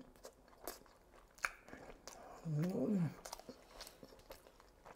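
A person chewing a mouthful of lamb kebab wrap: soft, scattered mouth clicks and small crunches, with a short hummed vocal sound, rising then falling in pitch, about two and a half seconds in.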